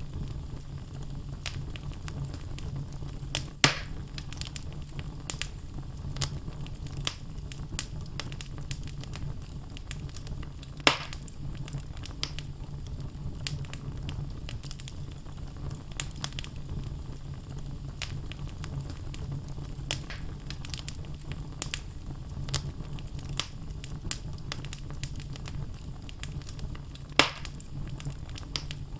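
Wood logs burning in a fireplace, crackling continuously over a low steady rumble of the flames, with three louder sharp pops: a few seconds in, about eleven seconds in, and near the end.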